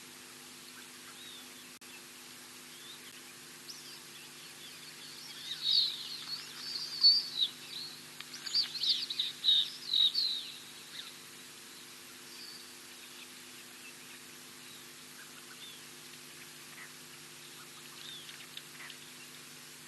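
Birds chirping and chattering in a lively burst of quick, high calls for about six seconds in the middle, with a few scattered calls after, over a faint steady low hum.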